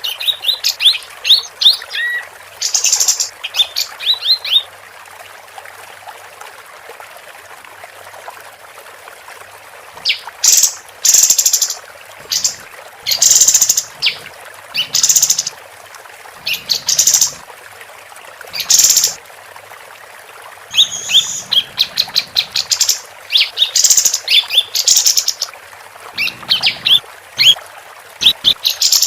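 Female kapas tembak (a bulbul) singing loud bursts of rapid, sharp chirps and whistled notes, in phrases broken by pauses of a few seconds.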